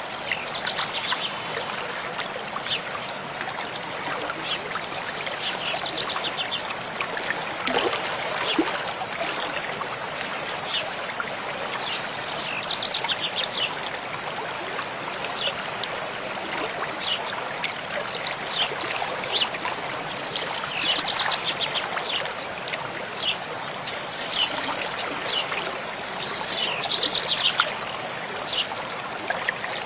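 Mountain stream flowing steadily, with songbirds singing short rapid trilled phrases every few seconds over the water.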